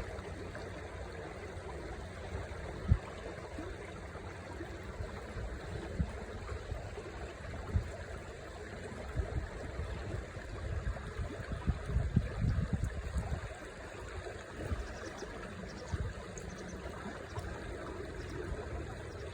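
Shallow river water running steadily over stones, with several low thumps; the loudest comes about three seconds in, and a cluster of them about two-thirds of the way through.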